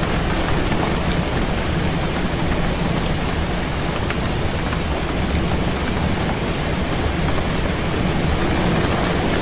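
Heavy rain falling steadily on a window, with many small drop ticks and a constant low rumble underneath.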